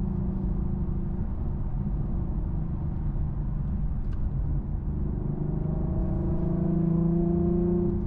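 Infiniti Q50's 3.7-litre VQ37 V6 heard through a custom stainless exhaust with an X-pipe and Flowmaster FX mufflers, droning steadily while the car is driven. The engine note strengthens and climbs slightly in pitch over the last few seconds as the car pulls harder.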